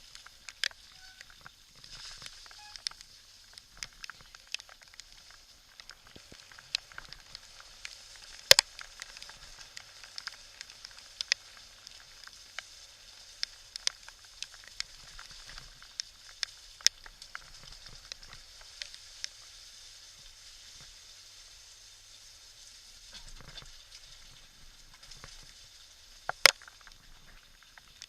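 Thunderstorm rain hissing steadily, with irregular sharp ticks all through it; two louder ticks come about eight and a half and twenty-six seconds in.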